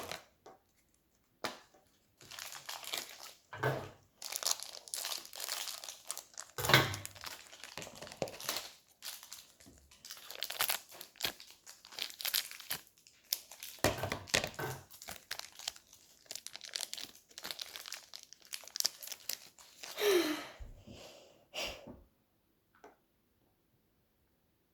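Plastic toy packaging crinkling and being torn open by hand, in a steady run of irregular rustles that stops about two seconds before the end.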